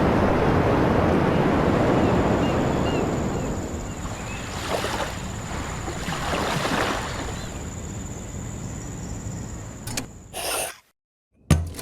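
Sea waves washing in and receding with wind, loudest at the start and easing off, with two further swells; it cuts off suddenly near the end.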